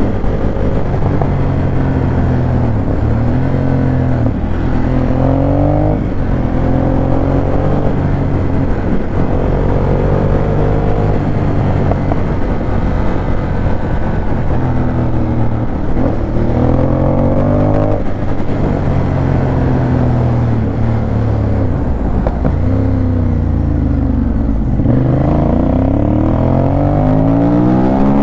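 Ducati Monster 821's Testastretta L-twin engine under hard acceleration while riding, its pitch climbing and dropping back at each gear change, several times over.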